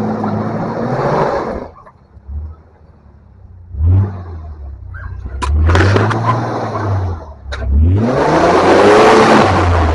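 Off-road 4x4's engine revving hard in repeated bursts, each rising in pitch and falling away, as the rig tries to power up a steep hill.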